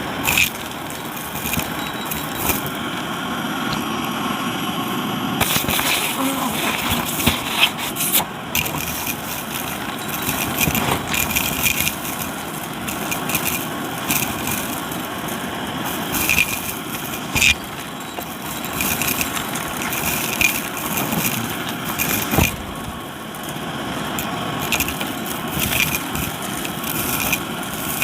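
Shark vacuum running with its crevice tool: a steady suction noise broken by frequent crackles and clicks as debris is drawn up through the tool.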